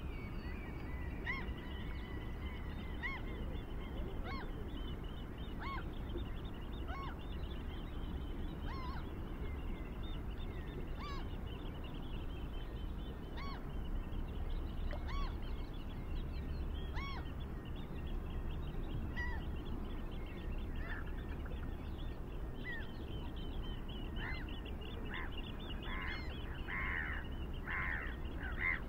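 Birds calling: short repeated calls every second or two, with a denser run of louder calls near the end, over a steady low rumble.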